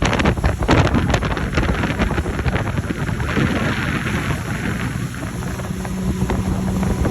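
Speedboat running fast over the water, with heavy wind buffeting on the microphone and a loud low rumble. A hiss of spray swells about halfway through, and a steady engine hum comes through near the end.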